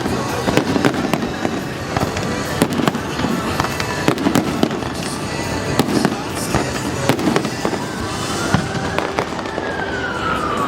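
Fireworks display: a dense string of bangs and crackling bursts, with a whistle that rises and then falls near the end.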